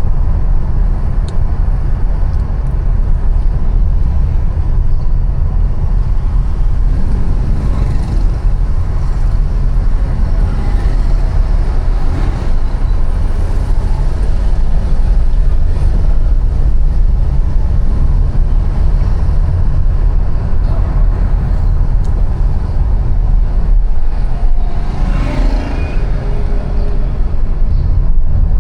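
City road traffic heard from a moving bicycle, under a loud, deep, steady rumble, with one vehicle passing more loudly near the end.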